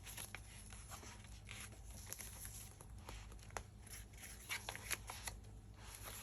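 Faint rustling of paper and card with a few light clicks and taps, as the pages and pockets of a handmade junk journal are handled and turned.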